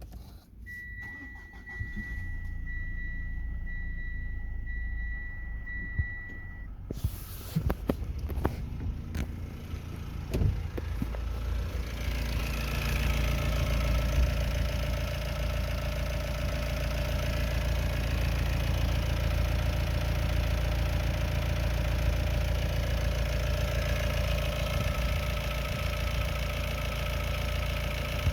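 Mitsubishi ASX 1.8 DI-D four-cylinder turbodiesel being started. A steady electronic warning tone with short beeps sounds for the first several seconds. About seven seconds in the engine cranks and catches, then it settles into a steady idle.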